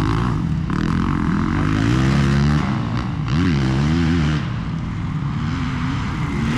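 Motocross bike engines revving up and dropping back over and over as the bikes ride the track.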